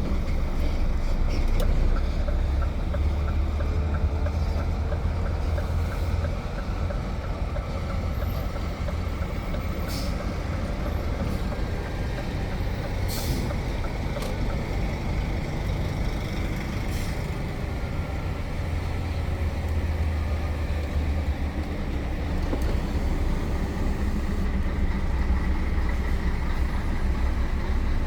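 Container truck driving on the road, its diesel engine giving a steady low rumble under tyre and cab noise. There are three short high hisses, about ten, thirteen and seventeen seconds in.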